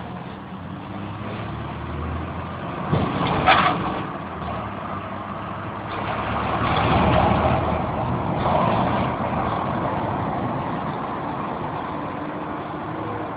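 Motor vehicle engine running: a steady low hum under a rushing noise that swells for a few seconds around the middle, with a brief sharper sound a few seconds in.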